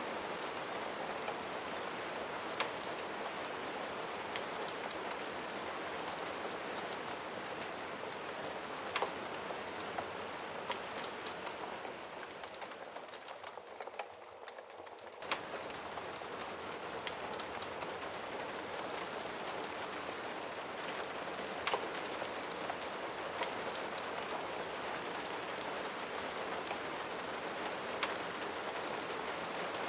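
Steady rain pattering, with a few sharp ticks scattered through it. The rain thins and grows quieter for a few seconds around the middle, then comes back abruptly at full strength.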